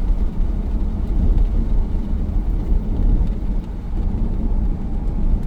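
2002 C5 Corvette's 5.7-litre V8 running through a custom axle-back exhaust with Magnaflow mufflers and electric cutout valves, a steady low rumble as the car is driven.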